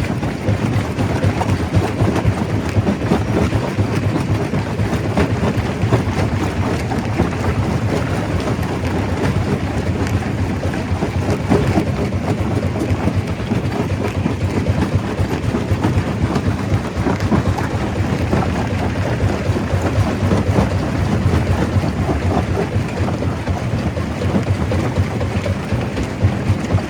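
Stone crusher crushing rock: a steady, dense rumble with a constant clatter of small rock impacts.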